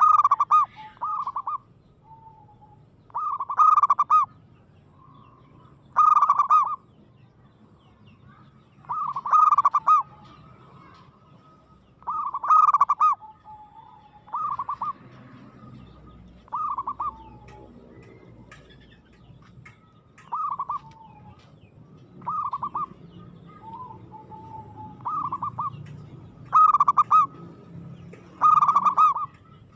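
Zebra dove (perkutut) cooing: short phrases of rapid, trilled coo notes repeated every two to three seconds, with softer single coos in between.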